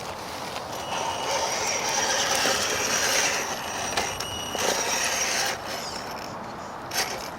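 Electric motor and geared drivetrain of a radio-controlled scale crawler truck whining as it crawls over rough ground, starting and stopping with the throttle and easing off about five and a half seconds in.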